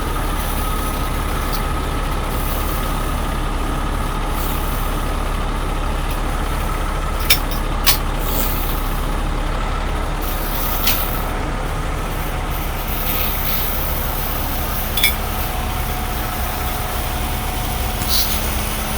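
Heavy truck diesel engines idling steadily, with a few short sharp clicks or knocks about seven and eight seconds in and again near fifteen seconds.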